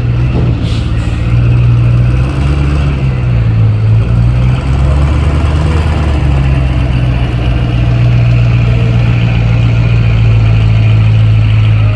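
2006 Chevy pulling truck's engine running hard under full load as it drags the pulling sled, holding a steady, loud pitch with a brief dip about four seconds in. It drops off at the very end.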